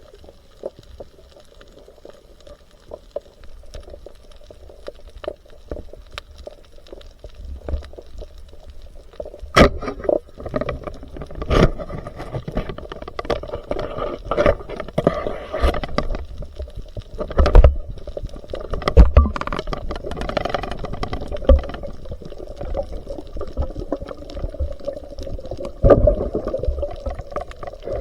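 Water gurgling and sloshing over a low rumble, with sharp knocks and thumps coming more often from about ten seconds in.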